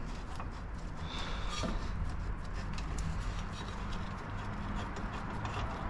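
Scattered light clicks and knocks of hand tools on metal as bolts are worked loose on a car's front end, over a steady low hum.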